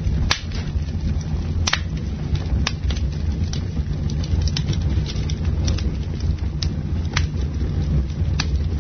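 Campfire burning: a steady low roar of the flames with scattered sharp crackles and pops of burning wood, two of the loudest pops close together near the start.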